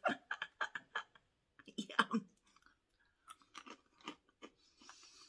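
A person crunching and chewing thin lemon-and-chili potato sticks: quick crisp crunches close together at first and again about two seconds in, then sparser crunches.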